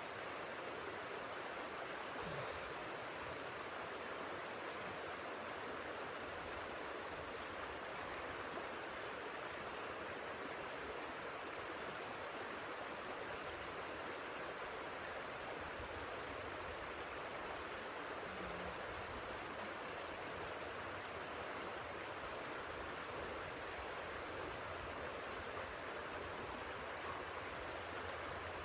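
Steady, even rushing of blizzard wind, with no gusts or breaks.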